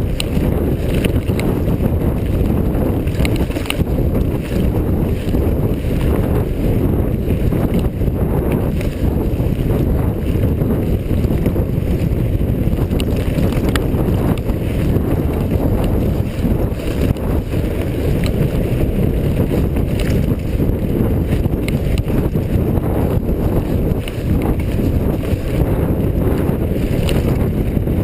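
Mountain bike being ridden on a dirt trail: steady loud wind buffeting on the action-camera microphone over a low rumble of tyres and frame, with scattered small knocks and rattles.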